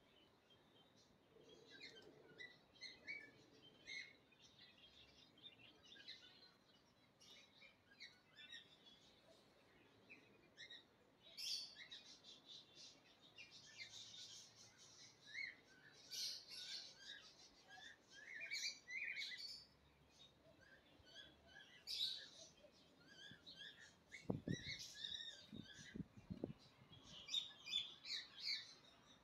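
Small birds chirping faintly and repeatedly in short high calls throughout, with a few dull low thumps near the end.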